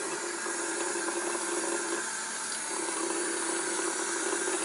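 Tap water running steadily into a sink: an even rushing hiss with a low steady hum under it.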